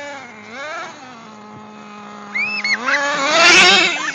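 Toy RC truck's motor whining, its pitch rising and falling with the throttle: a couple of short blips near the start, a steady hum, then a climb to its loudest about three seconds in.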